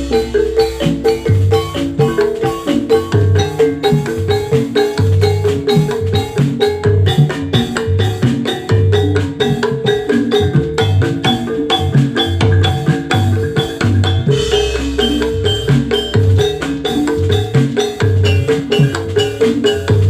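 Instrumental Javanese gamelan music for jathilan, with no vocals: metallophones strike a fast, steady, interlocking pattern over regular low drum beats. A deep low stroke rings out at the start and again about two-thirds of the way through.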